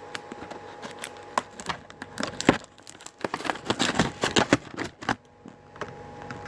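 Cardboard and packing being torn and crinkled by hand as a taped-up box is opened: a run of irregular rustles, rips and crackles, busiest in the middle.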